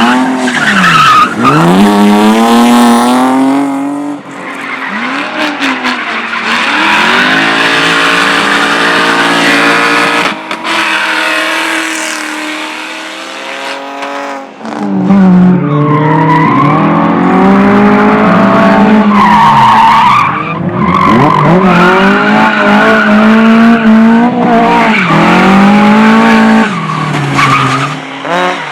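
A competition car's engine revving hard on an autoslalom course, its pitch climbing and dropping again and again through gear changes and braking, with tyres squealing. It fades somewhat through the middle and comes back loud about halfway through.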